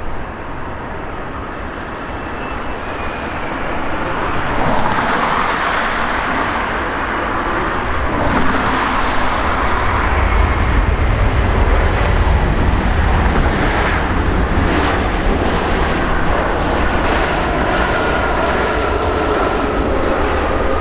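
Jet engines of a Boeing 787-9 (Rolls-Royce Trent 1000) as the airliner comes in to land, a loud steady jet roar. It builds about four seconds in, a deep rumble grows stronger about halfway through, and a steady engine whine carries on above it near the end.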